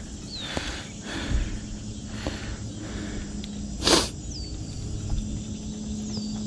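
Water splashing in short bursts as a freshly landed bass thrashes, with one louder splash about four seconds in. A bird's short falling whistle repeats three times.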